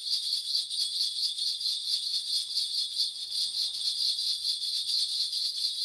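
A Korean shaman's ritual bells (bangul) shaken rapidly and continuously, giving a dense, steady jingling as she calls on the spirits during a divination.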